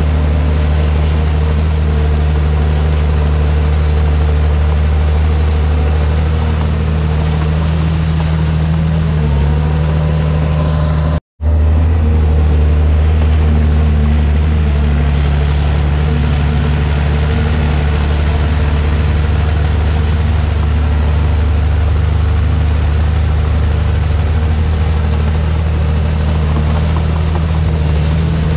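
Heavy diesel engine of a Komatsu D51PX bulldozer running steadily at working speed, a loud low drone. The sound drops out for a moment about eleven seconds in, then carries on unchanged.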